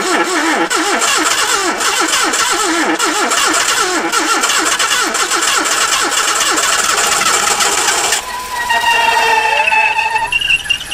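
1978 Datsun's carbureted engine cranking on the starter and firing roughly on brake cleaner sprayed into the carburetor. The sound changes about eight seconds in and stops near the end.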